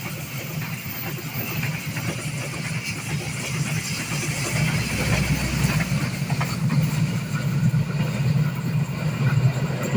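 An engine running with a steady low hum, growing louder from about four seconds in as it comes closer.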